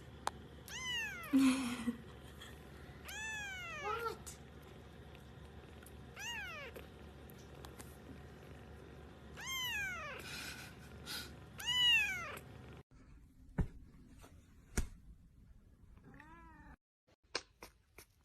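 A cat meowing over and over, each meow rising then falling in pitch, several seconds apart. About thirteen seconds in the sound cuts off abruptly, and a fainter meow and a few sharp clicks follow.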